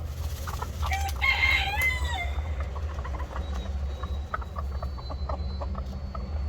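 A rooster crowing once, about a second in, followed by scattered short sharp sounds, over a steady low rumble.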